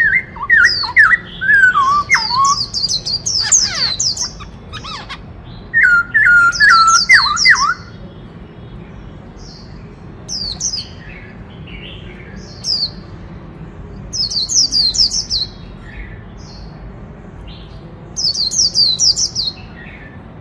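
Black-throated laughingthrush singing in bursts. Lower whistled phrases of repeated notes come at the start and again about six seconds in, and high, rapid runs of falling notes recur every few seconds.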